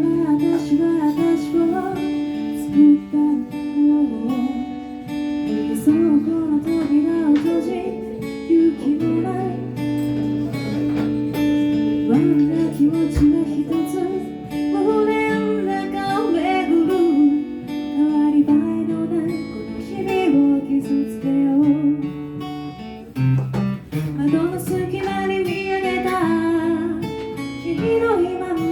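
Live acoustic guitar accompaniment with a melody line carried over it, a pop song played in a small live set.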